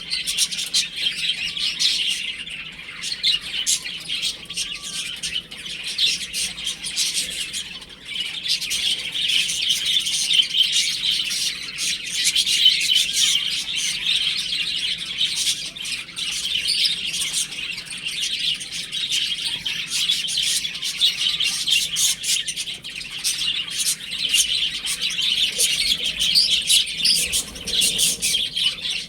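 A group of baby chicks peeping, many high chirps overlapping with no pause.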